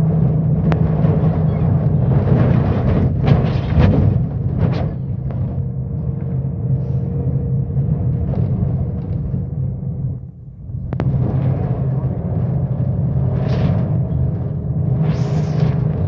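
Scania K270UB bus engine and ZF automatic gearbox heard on board while under way, a steady low drone. The drone dips briefly about ten seconds in, followed by a sharp click, and short hissing bursts come and go.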